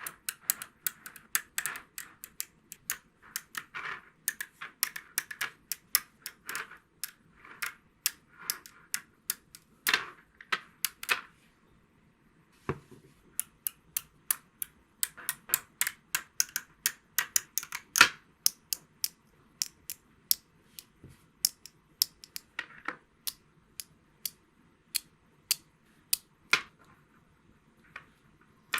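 A long run of sharp, irregular clicks and taps, a few a second, with a short pause of about a second partway through.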